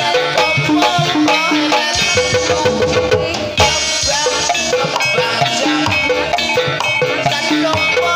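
Javanese gamelan-style dance music for the kuda kepang horse dance: struck pitched percussion repeats short notes in a fast, steady pattern over hand-drum strokes.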